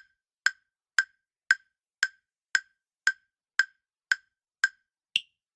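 Countdown timer sound effect: eleven sharp ticks, about two a second, with the last tick higher in pitch.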